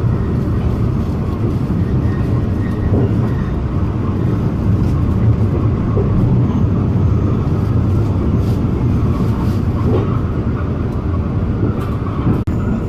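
Alishan Forest Railway train running, heard from on board: a steady, loud rumble of wheels on rails and the train's motion. The sound drops out for an instant near the end.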